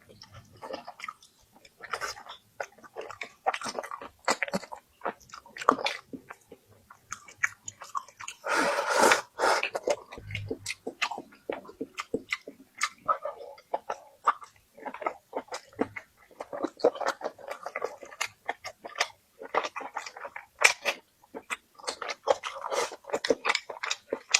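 A person chewing food close to the microphone: a quick, irregular run of wet mouth clicks and short chewing noises, with a longer, louder stretch about nine seconds in.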